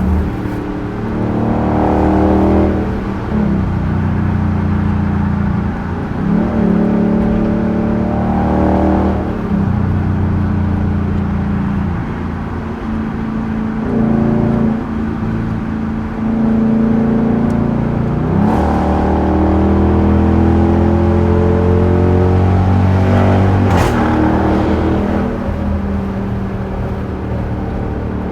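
Straight-piped 5.7-litre HEMI V8 of a 2021 Dodge Durango R/T pulling hard through the gears: the exhaust note climbs in pitch, drops sharply at each upshift, and climbs again, several times over.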